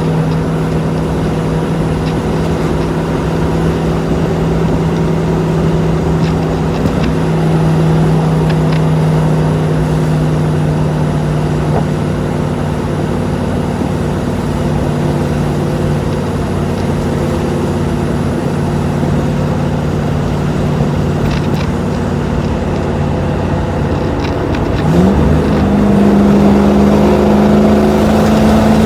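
1984 Land Rover's 3.5-litre Rover V8 engine running at a steady speed. About 25 seconds in, the engine note rises quickly and holds at a higher pitch as the engine speeds up.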